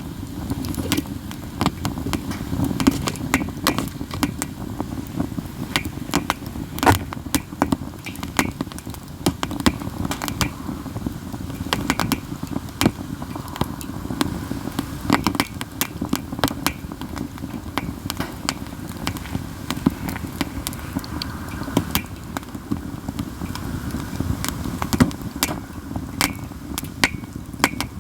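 Katsura wood burning in a campfire, crackling constantly with frequent sharp, loud pops over a steady low rush of the fire.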